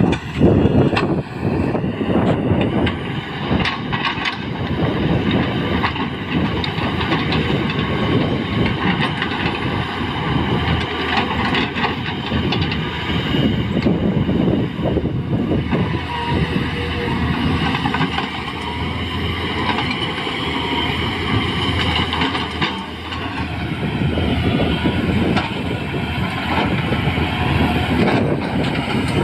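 Tata Hitachi EX200LC excavator working: its diesel engine runs steadily under load with a steady hydraulic whine, and now and then there are knocks and clanks.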